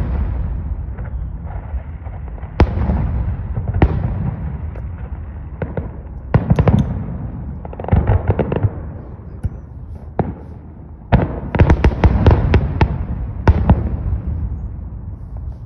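Aerial fireworks shells bursting in a finale barrage. Sharp bangs, each followed by a low rolling echo, come singly at first and then in dense clusters of rapid crackling reports, thickest in the second half.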